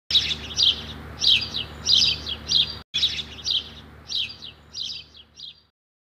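A small bird chirping repeatedly: high-pitched chirps at roughly two a second, cutting out for a moment about halfway and growing fainter toward the end.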